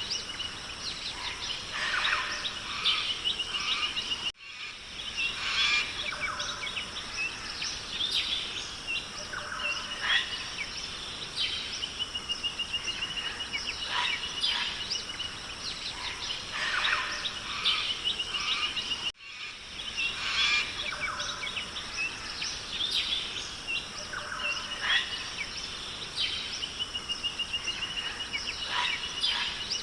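Forest ambience of many birds calling and chirping over a steady high hiss, with a rapid even trill recurring several times. The sound drops out for an instant about 4 seconds in and again about 15 seconds later, where the recording loops.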